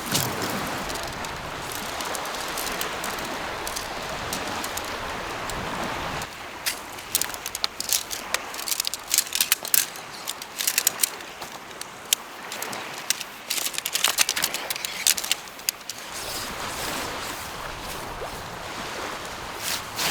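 Steady rushing wash like water on a shore. For a stretch in the middle it gives way to irregular sharp clicks and crunches, then the wash returns near the end.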